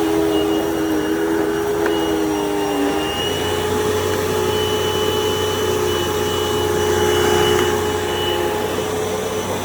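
Dirt Devil Total Vision UD70220 upright vacuum cleaner running on carpet: a steady motor whine over rushing air. About three seconds in, the pitch shifts and a low hum joins.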